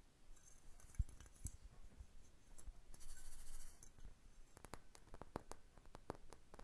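Close, quiet ASMR handling sounds. There is a soft thump about a second in and two brief spells of rustling, then a quick, irregular run of fingernail taps and clicks over the last couple of seconds.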